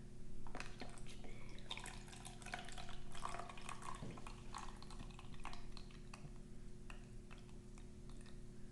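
Water poured in a thin trickle into the small water reservoir of a microwave s'mores maker, with irregular drips and small clicks.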